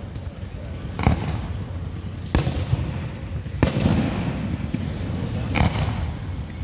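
Fireworks display: four sharp booms of bursting shells a little over a second apart, with smaller pops and a continuous low rumble between them.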